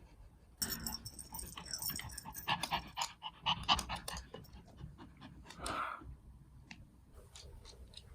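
A Pomeranian dog panting, busiest in the first half and quieter near the end.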